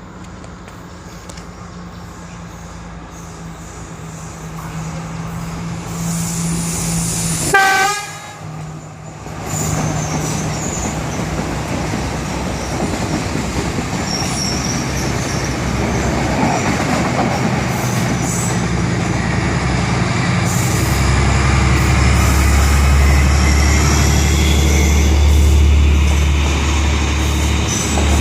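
A Sri Lankan diesel multiple unit train approaches and passes, giving one short horn blast about eight seconds in. After that its diesel engine and wheels grow steadily louder, with a strong low engine drone over the last several seconds.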